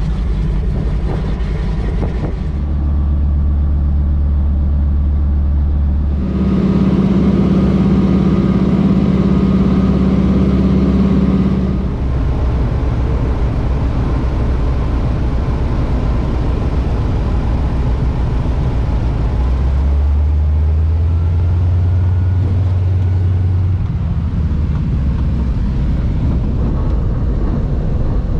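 Float plane's engine and propeller running steadily at cruise. The low hum jumps abruptly to a different pitch several times.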